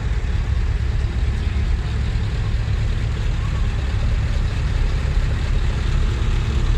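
Heavy truck's diesel engine idling: a steady, loud low rumble.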